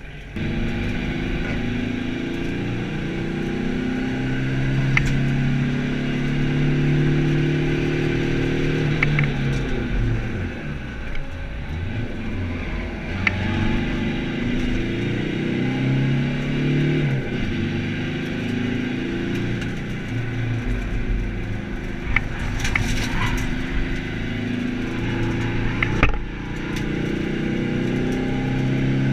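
Skoda Fabia TDI rally car's turbodiesel engine heard from inside the stripped, caged cabin, pulling hard through the gears: the engine note climbs, then drops back at each upshift. It eases off about a third of the way in, then pulls up again, with a few short sharp knocks along the way.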